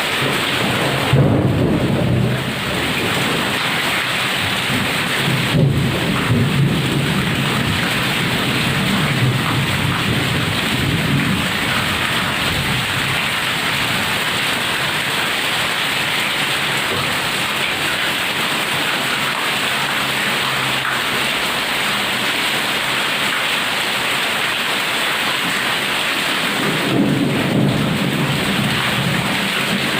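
Heavy rain pouring steadily, with rolls of thunder rumbling about a second in, again from about five to twelve seconds, and near the end.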